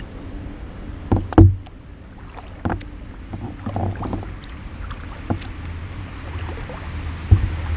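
Kayak paddling: paddle blades dipping and splashing, with a low steady rumble and a few sharp knocks, the loudest about one and a half seconds in and another near the end.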